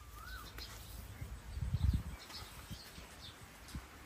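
Birds calling: a short wavy whistle just after the start and scattered faint high chirps. About two seconds in comes a brief low, muffled thumping, the loudest sound, followed by a few softer low knocks.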